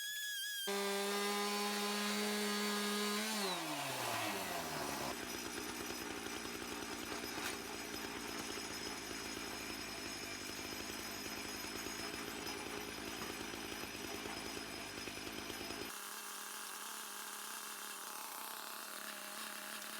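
Chainsaw-powered lumber mill running at high speed. Its pitch drops over a couple of seconds as it bogs into the cut, then it runs steadily through the log. The deep part of the sound falls away about four seconds before the end.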